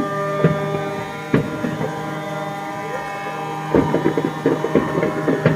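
Many ships' horns sounding together in one steady, held chord, with sharp fireworks bangs over it that come thicker from about four seconds in.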